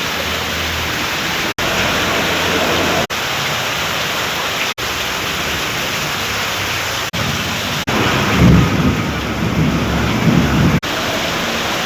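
Heavy rain falling in a steady hiss, with a deep rumble welling up about eight seconds in and fading near the end. The sound drops out for an instant several times.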